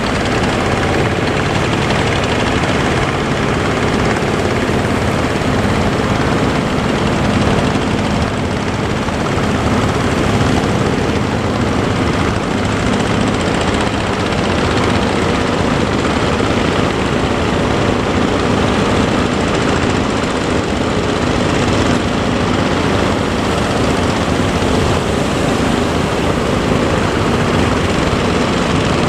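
Boat engine running steadily under a constant wash of wind and surf noise.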